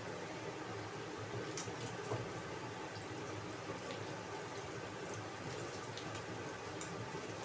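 Egg and dried radish sizzling in oil in a nonstick pan, with a plastic spatula scraping and tapping against the pan a few times.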